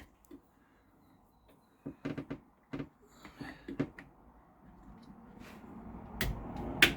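Scattered knocks and clicks from plumbing pipes and fittings being handled. The knocks are short and separate, and the sharpest clicks come near the end.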